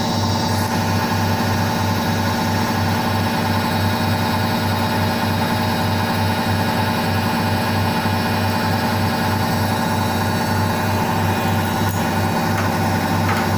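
Indesit IWSC5085 washing machine running steadily, its motor whining with many steady tones over a low hum that pulses about three to four times a second.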